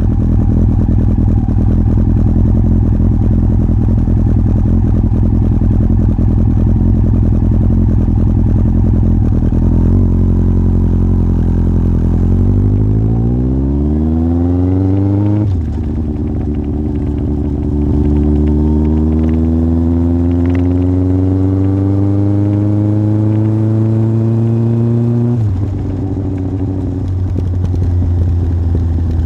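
Yamaha Fazer 1000's inline-four engine through a MIVV aftermarket exhaust, running steadily, then accelerating from about ten seconds in with the pitch rising fast. The pitch drops suddenly at a gear change, climbs again more slowly, and drops once more near the end.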